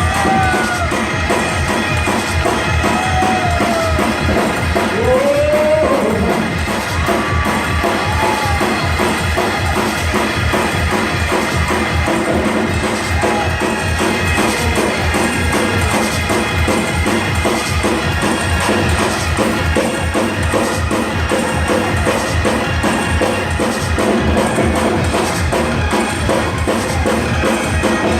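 Live gospel praise-break music: a drum kit playing a fast, driving beat under held chords, steady and loud throughout.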